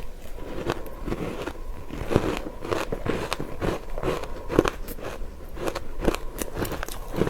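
Close-miked crunching and chewing of ice coated in matcha powder, a dense run of sharp, irregular crackles as it is bitten and broken up in the mouth.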